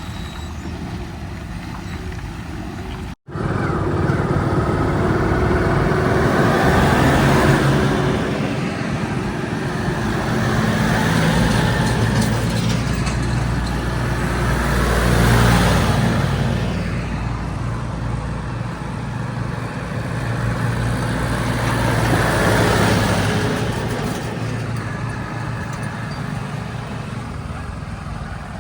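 A heavy diesel engine running, then cutting to silence for an instant about three seconds in. After that it runs louder, swelling and easing off about four times as it revs and works under load.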